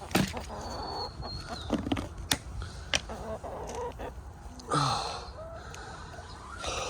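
Backyard laying hens clucking, with a few sharp clicks and a louder call about five seconds in.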